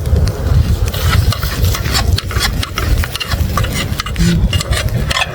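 A spatula stirring and scraping scrambled eggs around a pan, in short, irregular scrapes, over a steady low rumble.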